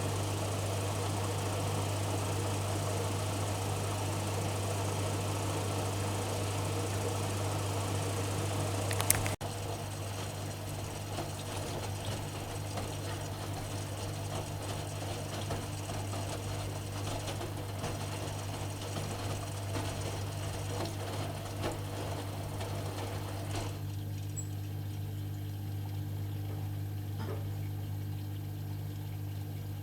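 AEG Öko-Lavamat washing machine running mid-cycle with a steady low hum. A sharp click comes about nine seconds in, after which the machine runs quieter.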